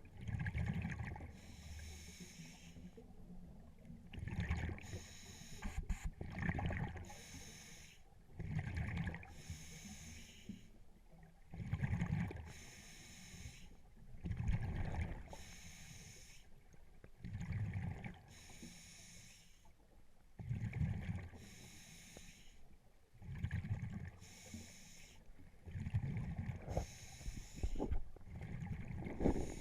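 Scuba diver breathing through a regulator underwater: regular breaths every two to three seconds, each a hissing inhale followed by a rumbling burst of exhaled bubbles.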